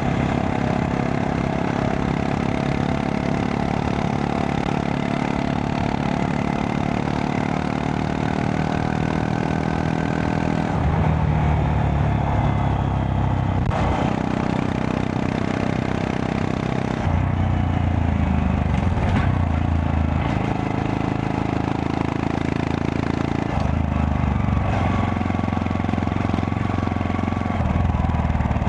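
Honda Monkey 125's single-cylinder four-stroke engine running under way. The engine note shifts in steps several times, about 11, 17, 23 and 28 seconds in, as the throttle and gears change.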